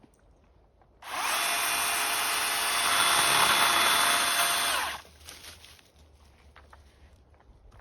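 A power tool motor spins up about a second in and runs at a steady speed with a whine for about four seconds, then winds down and stops.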